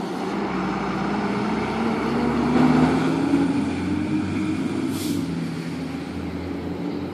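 A heavy truck's engine, likely fire apparatus, runs past, rising in pitch and getting louder about two to three seconds in, then easing off. There is a short hiss about five seconds in.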